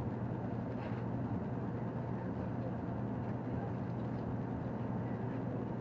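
Interior running noise of a Shinkansen bullet train at speed, heard from a passenger seat: a steady low hum under an even rushing noise.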